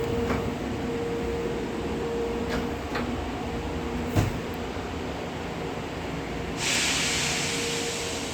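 High-speed train in motion, heard from the passenger cabin: a steady rumble with a faint hum, a few light clicks, and a sharper knock about four seconds in. From about six and a half seconds on, a sudden loud hiss joins in and holds steady.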